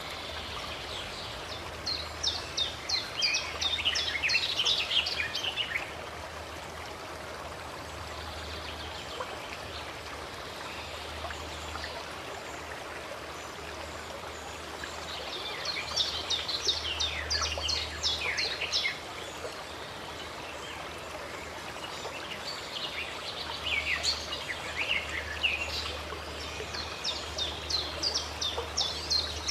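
Running stream water flowing steadily, with a bird singing rapid chirping phrases in three bouts: about two seconds in, about halfway through, and again near the end.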